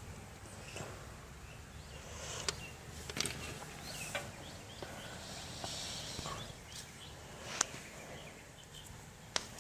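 Light handling noises while soldered wires and crimp connectors are worked by hand: scattered soft clicks and rustles, one sharper click about three-quarters of the way in, over a faint steady background hiss.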